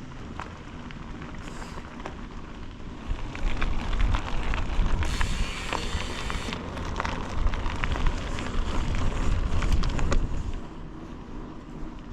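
Wind buffeting the microphone in a low rumble that swells from about three seconds in and drops away near the end, with scattered crackling ticks throughout and a brief hiss in the middle.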